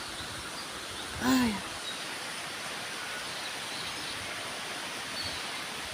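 Heavy tropical rain falling steadily, an even hiss. A brief pitched sound, about a second in.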